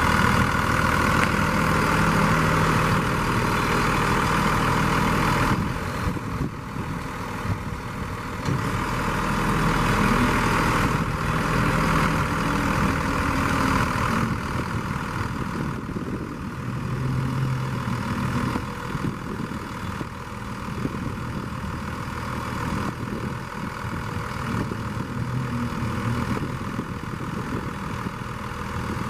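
The engine of a 2001 Utilimaster box truck running, a steady low engine sound that is a little louder for the first five or six seconds.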